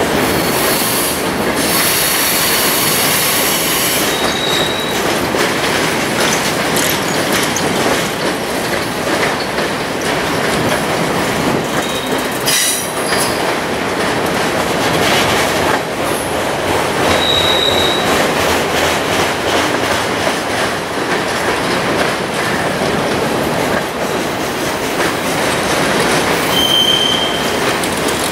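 Freight cars of two passing trains rolling by: a steady rumble and clatter of steel wheels on rail. Brief high-pitched wheel squeals come a few seconds in, about midway, and again near the end.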